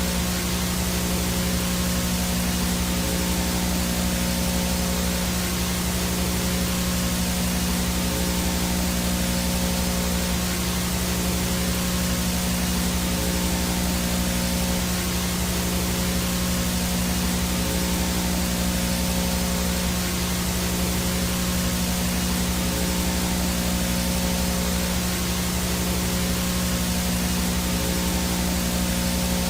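VHS static with no signal: a steady hiss over a low buzzing hum, with a faint high whine above, unchanging throughout.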